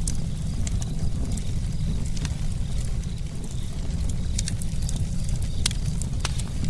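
Campfire crackling: frequent sharp snaps and pops of burning wood over a steady low rumble.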